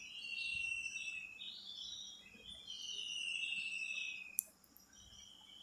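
Birds chirping in several high, slightly falling phrases, with a single sharp click about four seconds in.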